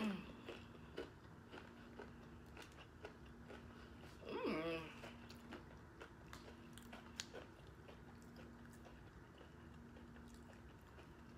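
Close-up biting and chewing of a soft-shell chicken taco topped with Takis, with many small crisp crunches. A brief pitched vocal sound comes about four seconds in.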